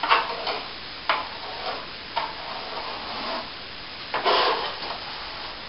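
Plastering tool scraping over plaster in short, irregular strokes, with one longer, louder stroke about four seconds in.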